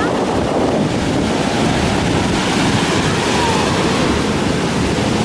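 Sea surf washing onto the beach, a steady rushing, mixed with wind buffeting the microphone.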